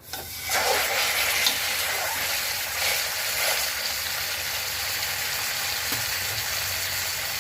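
A whole masala-coated chicken frying in hot coconut oil in a pressure cooker: the sizzle starts as the chicken goes in, grows loud within the first half second, then holds steady.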